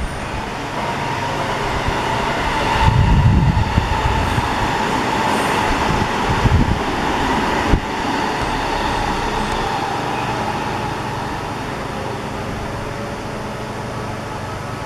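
Boeing 767 airliner's jet engines running on approach, a steady roar with a faint whine over it that eases after about eight seconds. Gusts of strong wind buffet the microphone about three and six seconds in.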